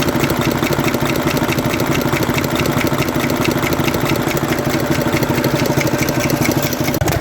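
Mercedes-Benz Actros six-cylinder diesel engine idling steadily, with a regular ticking knock running through the idle. It is the engine being checked for a firecracker-like knock in cylinder number 3, a fault the mechanic traced to the diesel pump.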